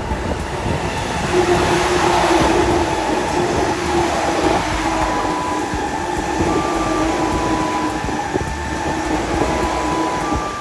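Train running close by on the rails, a loud rumble that swells about a second and a half in, with a steady humming tone from the running gear.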